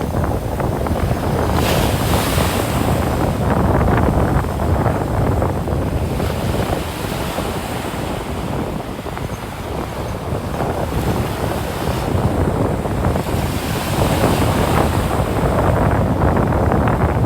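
Ocean surf washing onto the beach in slow swells, with wind rumbling on the microphone.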